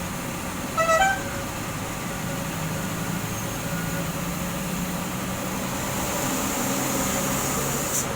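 A vehicle engine runs steadily. About a second in comes a short horn toot of two notes, the second a step higher, and just before the end a brief sharp hiss.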